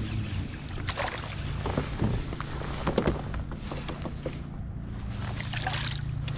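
Kayak on the water: irregular splashes and knocks over a steady low hum.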